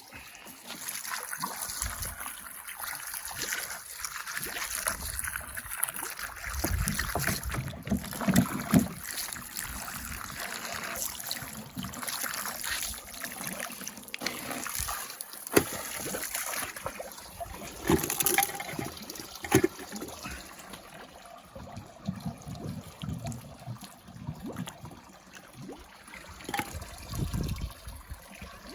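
Water trickling and sloshing, with scattered clicks and knocks of things being handled in it.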